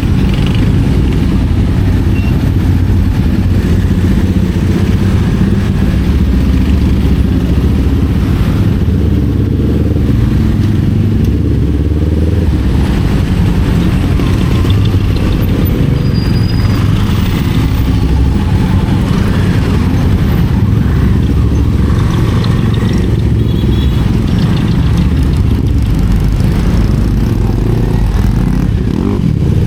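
Kawasaki Z400's parallel-twin engine running under way, its pitch rising and falling with the throttle, over steady rushing wind noise.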